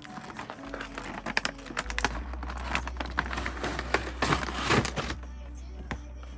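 Crinkling and rustling of handled material, with irregular clicks and light knocks, busiest about four seconds in.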